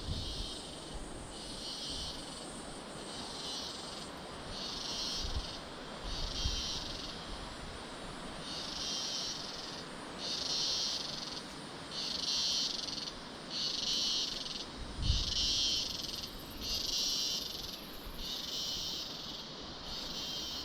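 Jungle insects calling in a rhythmic chorus: a high buzz that swells and stops about every second and a half, over a steady hiss.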